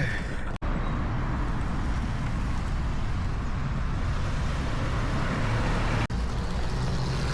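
Steady road traffic noise, with two instant dropouts where the sound cuts out, about half a second in and just after six seconds.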